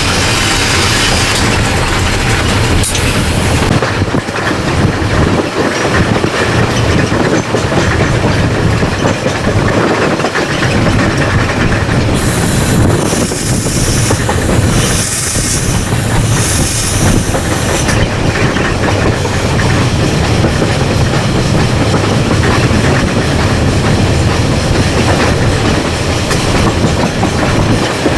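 Ww 644, a New Zealand Railways Ww-class steam tank locomotive, running along the line as heard from its cab: a steady loud rumble with the clatter of wheels over the rails. In the middle, a high-pitched sound comes and goes several times.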